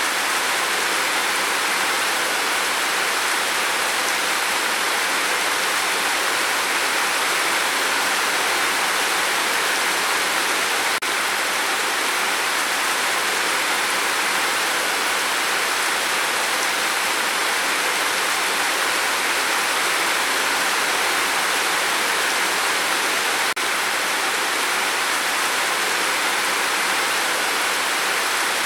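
Steady, even rain hiss, with two faint clicks, one about eleven seconds in and one near the end.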